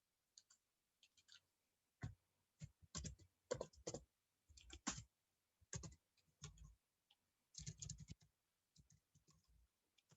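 Faint clicking and tapping of a computer mouse and keyboard, in scattered quick runs of clicks that are busiest from about two to eight seconds in.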